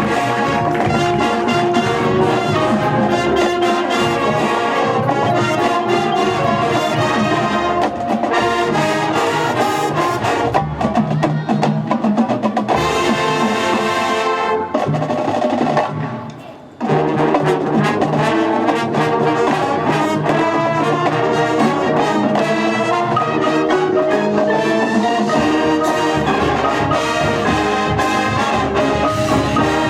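High school band playing a brass-led piece with percussion. The music breaks off for about a second just past the middle, then the full band comes back in.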